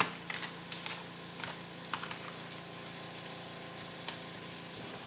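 Ground beef frying in an electric pressure cooker's pot on sauté mode: a faint sizzle with scattered small crackles and pops, over a steady low hum.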